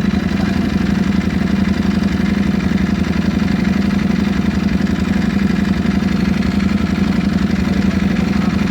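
Ducati Panigale V4 Speciale's V4 engine idling steadily with a deep, even hum.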